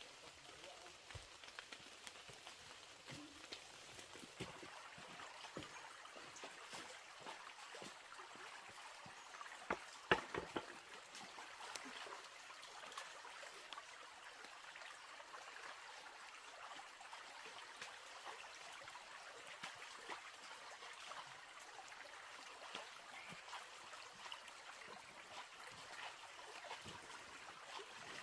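Water trickling steadily, with many small scattered clicks and a short cluster of louder knocks about ten seconds in.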